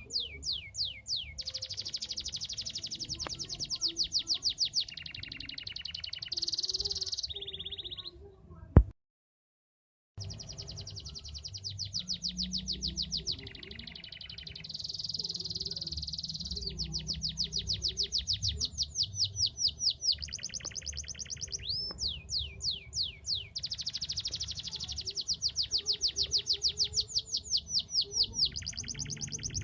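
Domestic canary singing long rolling trills of rapid repeated notes, mixed with quick sweeping notes, phrase after phrase. It is broken once, about nine seconds in, by a sharp click and a second's silence.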